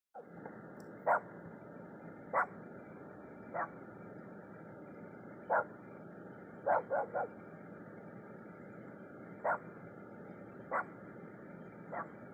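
A dog barking in short single barks, about ten in all and spaced a second or more apart, with a quick run of three about seven seconds in, over a steady hiss.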